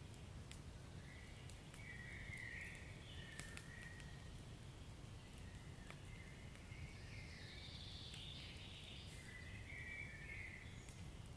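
Wood fire crackling, with scattered sharp pops over a low steady rumble and a few faint high-pitched hisses.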